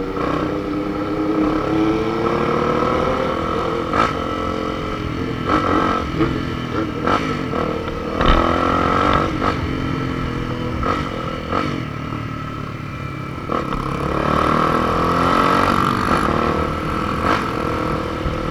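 Motorcycle engine running while riding, its pitch rising and falling with the revs, with a number of short sharp clicks and knocks throughout.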